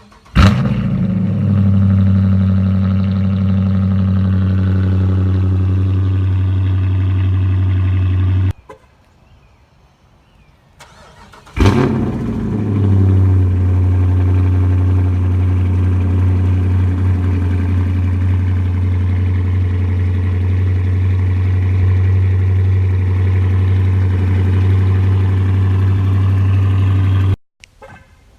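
Dodge Charger R/T V8 with a straight-pipe exhaust starting up and idling loud and steady. It cuts off suddenly after about eight seconds, then starts again a few seconds later with a burst and settles back into a steady idle, which cuts off shortly before the end.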